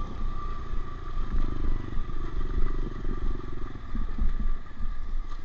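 Honda CRF125F dirt bike's single-cylinder four-stroke engine running steadily, with a fast, even exhaust beat.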